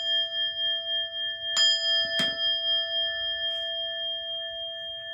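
Buddhist bowl bell struck twice, about a second and a half in and again just after two seconds, on top of the ringing of a stroke just before. Its several clear tones ring on, slowly fading.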